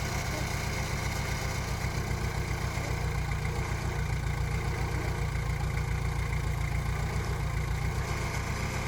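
Diesel engine of heavy earthmoving machinery running steadily at a low, even speed, with a slight regular pulse.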